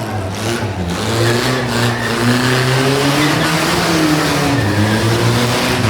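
Car engine being revved, its pitch rising and falling slowly.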